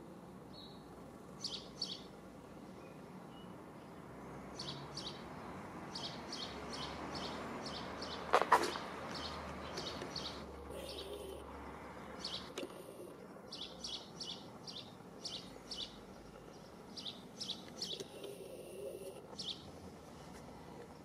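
Small birds chirping in short, repeated calls, with a soft rushing noise that swells and fades in the middle. A single sharp clattering knock comes about eight and a half seconds in.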